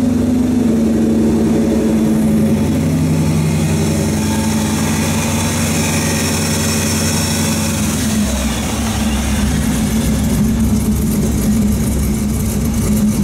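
Ford SVT Lightning's supercharged V8 running at a steady speed, its low tones shifting slightly about eight seconds in.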